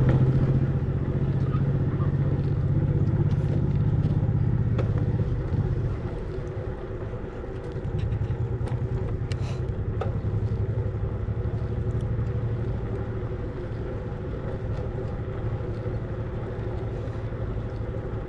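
Steady low rumble of road traffic, a little louder for the first six seconds or so, then easing.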